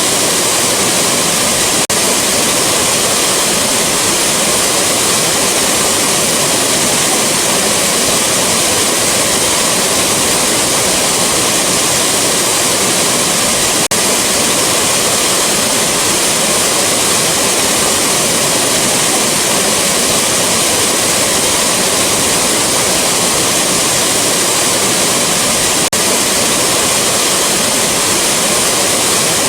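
Rushing waterfall: a steady, full roar of falling water with no change, broken only by a faint blip about every twelve seconds.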